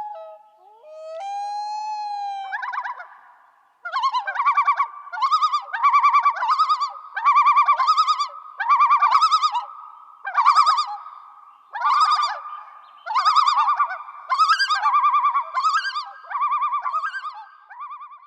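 A bird calling: a long whistled note that wavers in pitch, then from about four seconds in a run of rapid trilled bursts, roughly one a second.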